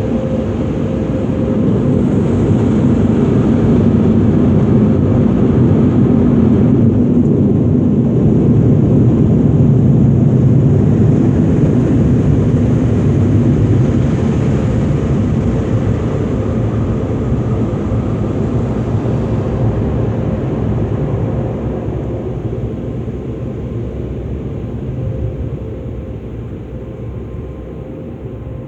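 Automatic car wash air dryers blowing on the car, a steady rush of air that builds over the first few seconds and then slowly fades away.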